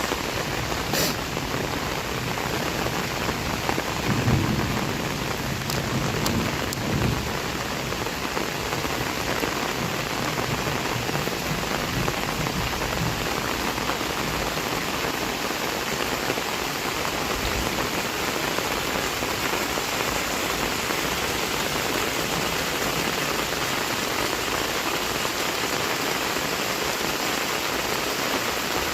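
Heavy rain falling steadily, a dense even hiss of drops on surfaces. About four seconds in there is a brief low rumble under the rain.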